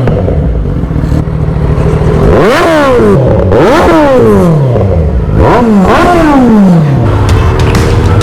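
Kawasaki inline-four motorcycle engine revved four times, each rev rising quickly and then falling away, before it settles to a steady idle near the end.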